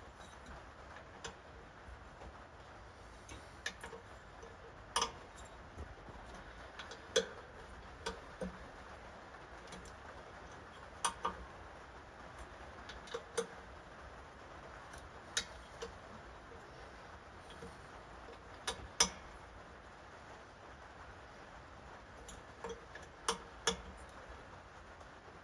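Scattered clicks and taps of a hand wrench working the nuts on an air compressor's cylinder head as they are tightened by feel, coming irregularly every second or two, sometimes in close pairs.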